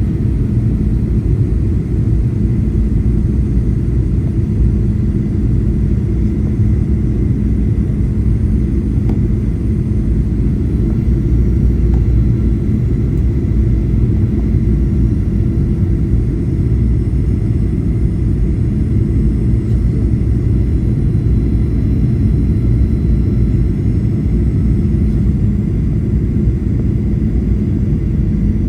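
Steady low rumble of engines and rushing air inside the cabin of a Boeing 737-800 coming in to land, with a faint steady whine above it.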